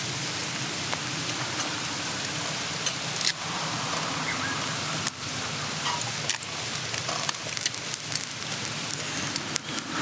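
Mountain stream running steadily, with scattered sharp pops and clicks from a wood campfire crackling.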